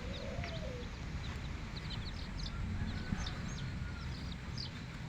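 Birds chirping: many short, high chirps repeating all through, with one lower rising-and-falling call in the first second.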